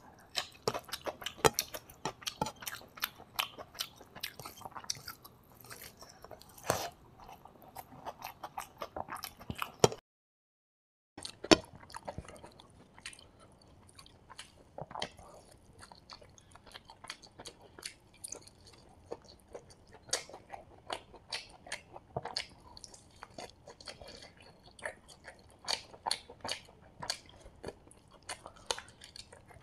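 Close-miked chewing of a mouthful of rice and fried chicken, with many sharp mouth clicks and smacks. The sound cuts out completely for about a second a third of the way through, then sparser chewing follows.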